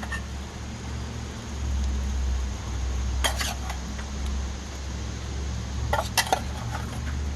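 Kitchen utensil clinking against cookware: once about three seconds in, then a quick cluster of clinks around six seconds, over a steady low hum.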